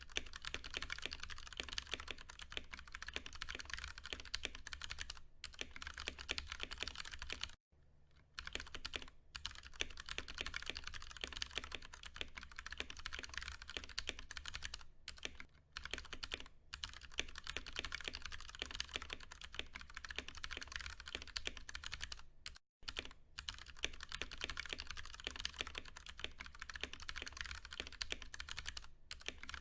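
Continuous fast typing on a Ducky One 2 Mini mechanical keyboard with Cherry MX Brown tactile switches: a dense run of key clacks, broken by short pauses about a quarter, halfway and three quarters of the way through. A faint low hum underlies it.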